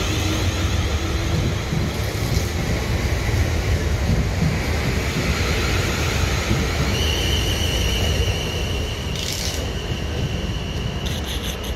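South Western Railway electric multiple unit running past on wet rails: a continuous rumble and rattle of wheels on track. A steady high whine comes in about seven seconds in, and the sound eases slightly as the train draws away.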